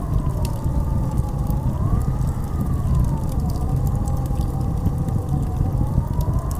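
Blizzard wind howling: a wavering whistle that slowly rises and falls in pitch over a deep, steady rumble, with scattered faint ticks.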